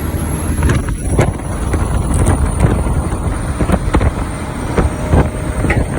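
Big truck on the road heard from inside the cab: a steady low engine and road rumble with frequent short knocks and rattles from bumps, some wind noise, and a faint high whine slowly falling in pitch.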